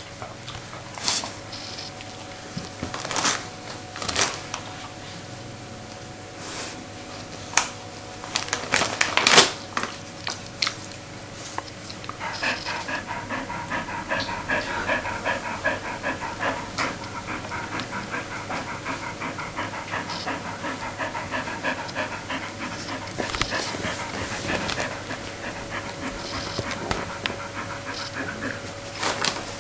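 Bearded collie panting fast and steadily, with a few sharp crackles in the first ten seconds.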